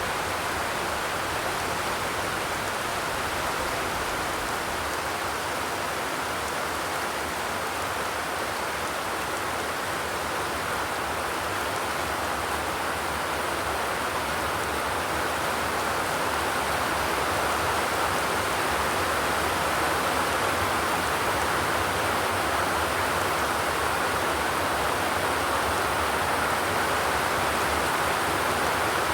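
Steady rain falling, with no thunder, an even hiss with no distinct drops standing out. It grows slightly louder about halfway through.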